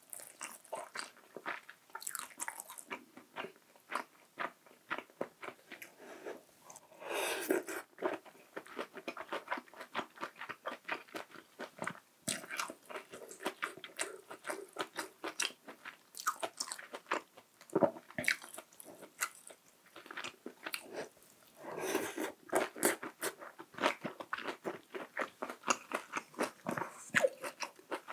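Close-miked mouth sounds of a person eating hot pot and rice: wet chewing, biting and crunching, with many small irregular clicks. There are two longer, noisier stretches about 7 and 22 seconds in.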